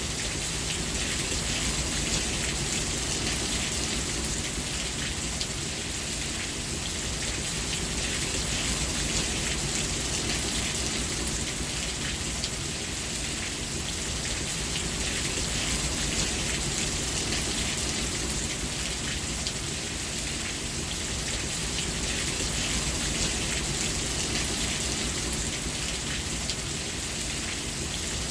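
Steady rain falling, an even hiss of many drops on a surface that swells and eases slightly in loudness.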